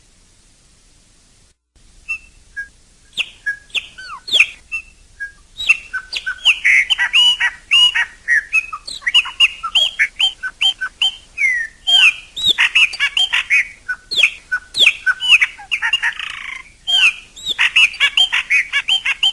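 Chopi blackbird (pássaro-preto) singing: a few scattered whistled notes start about two seconds in, building from around five seconds into a dense, loud run of fluty, gliding notes mixed with sharp clicks, with a harsher rasping call near the end.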